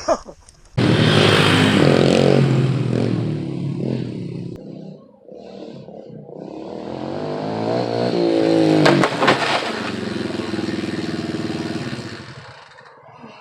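Dirt bike engine revving hard, easing off, then climbing in pitch again to a peak with a couple of sharp clatters, before holding steady and fading away.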